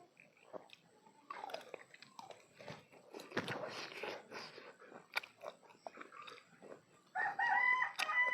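Close-up mouth sounds of food being bitten, crunched and chewed, with moist crackling clicks. Near the end a child's high-pitched voice calls out, long and falling in pitch.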